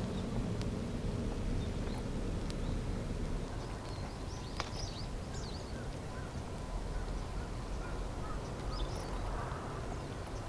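Outdoor ambience: a steady low rumble with a few scattered clicks. Short, high bird calls come in about halfway through and again near the end.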